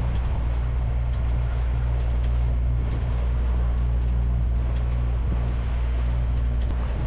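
Sailboat's inboard engine running at a steady low drone while motoring, with wind and water rushing over it.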